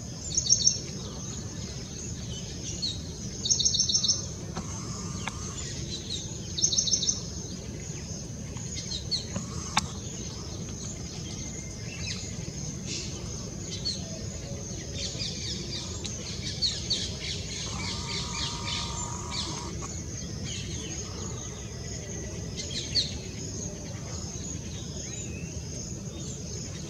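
Birds chirping and calling, with three loud bursts of rapid high chirps in the first seven seconds and scattered shorter calls after, over a steady low background noise.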